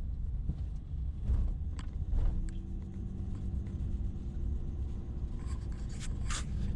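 Vehicle on the move: steady low road rumble, with a steady hum joining about two seconds in and a few light knocks.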